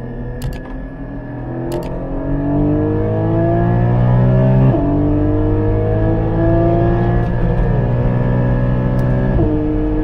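Porsche 718 Cayman GT4's 4.0-litre flat-six accelerating, its pitch climbing steadily, with a quick PDK upshift dropping the revs about halfway through and another near the end.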